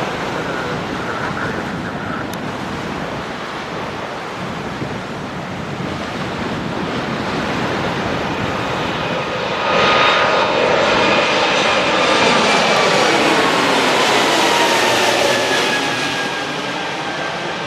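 Airbus A220-300's Pratt & Whitney PW1500G geared turbofans running at takeoff power. The jet noise swells as the aircraft passes about ten seconds in, then whining tones fall in pitch as it moves away.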